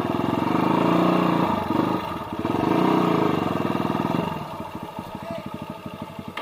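Trail dirt bike engine revved hard twice, each rev held for about two seconds, then dropping back to a quieter, pulsing idle.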